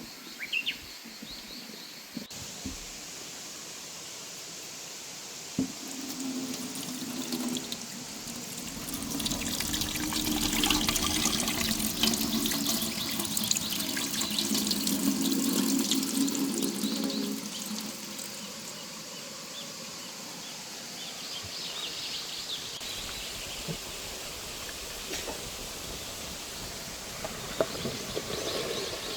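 Water pouring into a vessel, building from about six seconds in, running steadily for around ten seconds, then trailing off.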